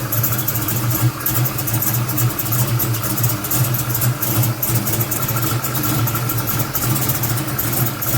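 Big-block V8 idling with an uneven, lumpy lope from its cam.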